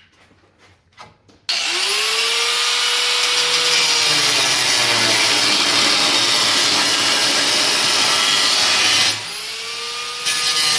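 Power cutting tool, most likely an angle grinder with a cut-off wheel, whining up to speed about a second and a half in and then cutting through steel with a loud, steady hiss. About nine seconds in it eases off briefly, whines back up to speed and cuts again.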